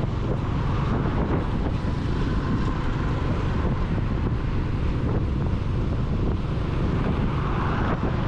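Wind buffeting the microphone of a camera on a moving motorcycle, a steady rush heaviest in the low end, with vehicle noise under it.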